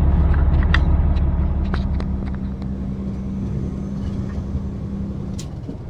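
Semi-truck heard from inside the cab, engine running with a steady low rumble; about two seconds in the rumble eases and a steady hum carries on, with a few light clicks.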